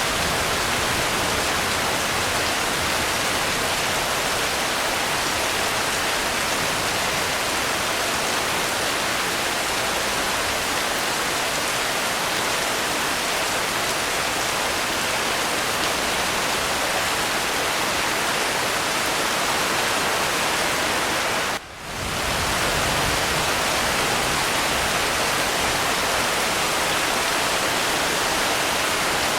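Steady, even rain with no distinct drops standing out. About two-thirds of the way through it briefly drops away for a split second, then comes back at the same level.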